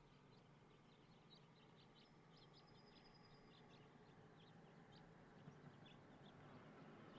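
Near silence with faint, scattered bird chirps and one brief high whistled note.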